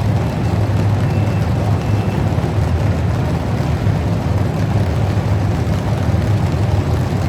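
Truck engine running steadily with a low rumble, with no revving.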